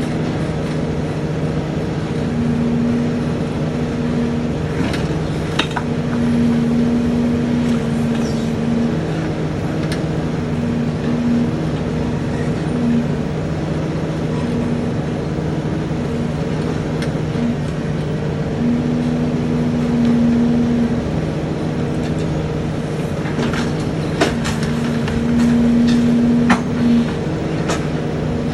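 Heavy truck engine running steadily with a constant hum, with a few sharp cracks and snaps about five seconds in and again near the end.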